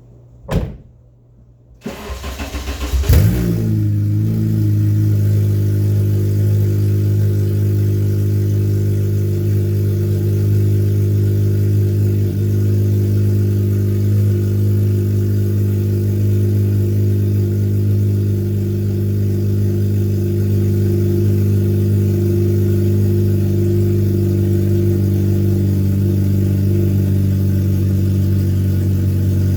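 A Honda K24/K20 four-cylinder engine's first start-up: a click, about a second of starter cranking, then the engine catches about three seconds in with a brief rev and settles into a steady, loud idle.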